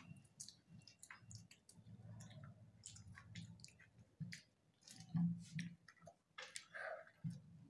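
Quiet, wet mouth sounds of children chewing and slurping soft, syrup-soaked gulab jamun, with many small scattered clicks and a short muffled vocal sound about five seconds in.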